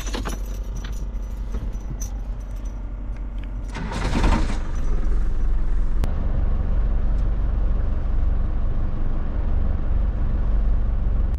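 Keys jangling at the ignition of a Land Rover Defender, then about four seconds in the engine starts with a short burst and settles into a steady idle.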